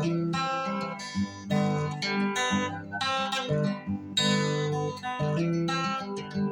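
Acoustic guitar strummed in a slow, low-key rhythm, one chord after another.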